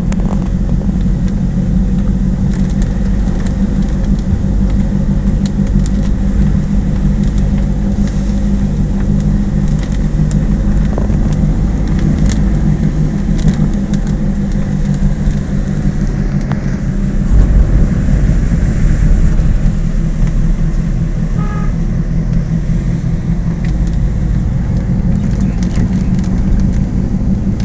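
Motor vehicle running steadily: a low engine drone with road noise, getting louder about two-thirds of the way through.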